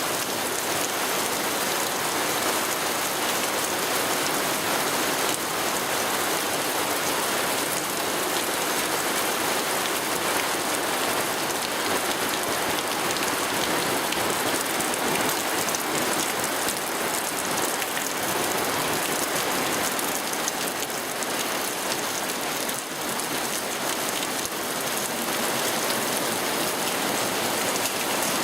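Steady rain falling, an even dense hiss of drops striking a surface.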